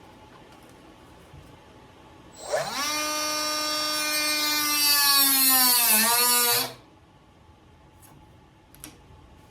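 A small electric power tool spins up about two and a half seconds in and runs with a steady whine for about four seconds. Its pitch sags briefly near the end, and then it shuts off.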